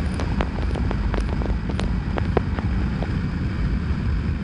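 A motorcycle under way, with a steady low rumble of engine and wind noise. Short sharp clicks are scattered through it.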